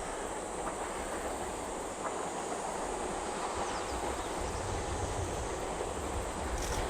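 Steam locomotive C57 180 approaching with its train, heard as a steady rumble that grows louder over the last few seconds.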